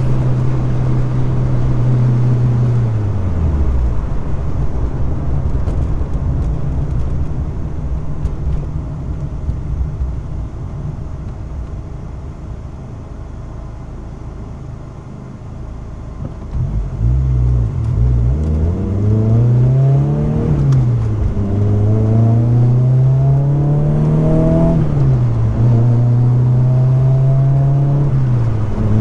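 Car engine slowing and dropping to a low idle, running quietly for several seconds, then accelerating away through the gears with two upshifts before settling into a steady cruise.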